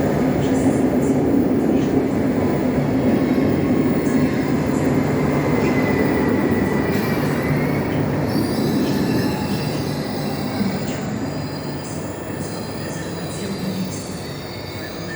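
Pendolino electric train running through the station, a steady loud rumble with thin squealing tones from the wheels. The rumble eases off gradually in the second half.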